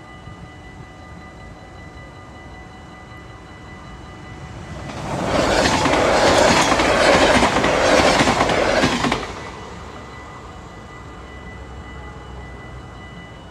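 NS double-deck electric passenger train passing over a level crossing: a rush of wheels on rail with rhythmic clatter swells up a little under five seconds in, lasts about five seconds, and drops off sharply as the last car clears. The crossing's warning bell rings steadily underneath throughout.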